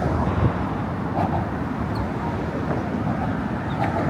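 Steady noise of motor traffic running on a roadway, heaviest in the low end, with no single vehicle standing out.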